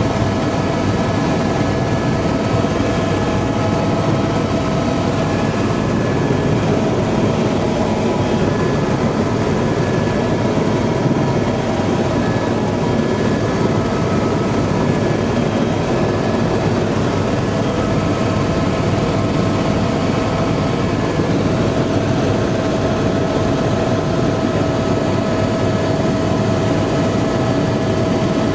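Tour helicopter in flight heard from inside the cabin: a loud, steady engine and rotor noise with a faint steady whine on top.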